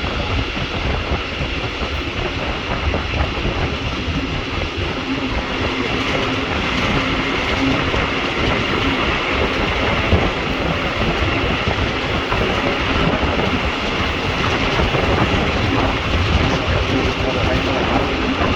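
Regional passenger train running at speed, heard from on board: a steady rolling noise of wheels on the track with a low hum.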